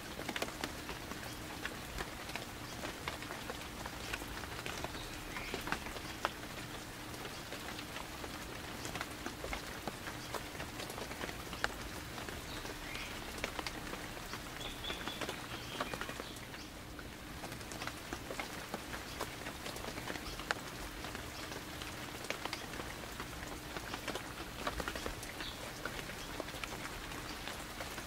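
Steady light rain falling, with many individual raindrops ticking sharply close by.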